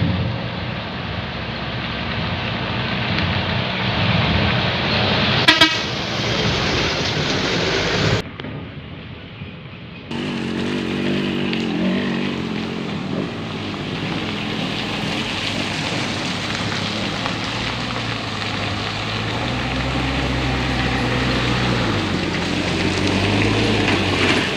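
Hino truck's diesel engine running hard under load on a slippery uphill climb, its pitch rising and falling. There is a sharp crack about five and a half seconds in, and the sound drops away for about two seconds around eight seconds in.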